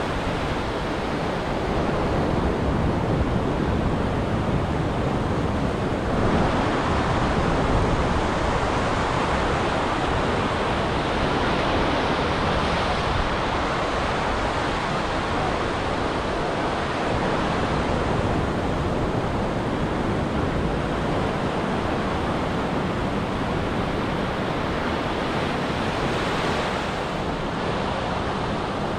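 Ocean surf breaking and washing on a beach as a steady rush of noise that swells a little about six seconds in.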